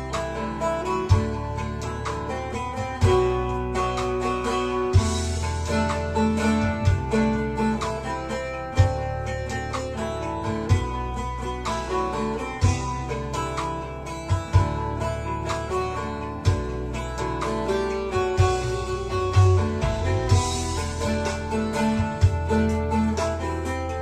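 Bağlama (Turkish long-necked saz) playing a plucked melody, over a sustained low bass line with regular sharp beats.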